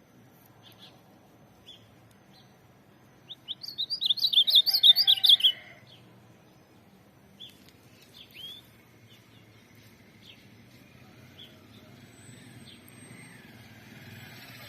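Ultramarine grosbeak (azulão) singing: one loud burst of rapid, high warbled notes lasting about two seconds, a few seconds in, with scattered faint single chirps before and after.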